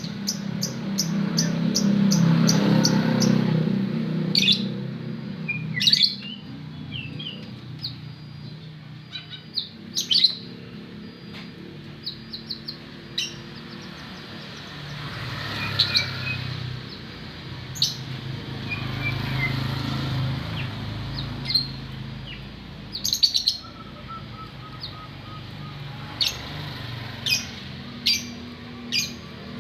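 White-rumped shama (murai) calling: short, sharp whistled notes and chips at irregular intervals, some in quick runs, over a steady low background noise.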